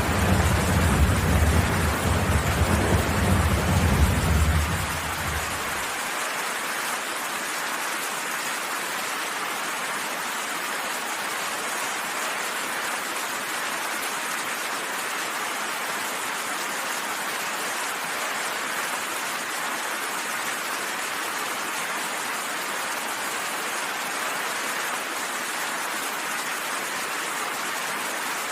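Steady rain hissing, with a low rumble of thunder under it that stops about five seconds in.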